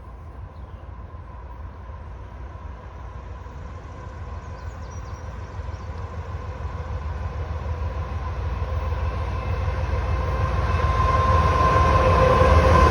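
Train approaching, growing steadily louder: a low rumble with a steady whine.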